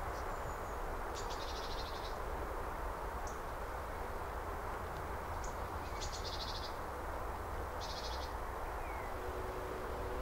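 Three short, high, buzzy bird calls, about a second in and again around six and eight seconds, over a steady low outdoor background noise.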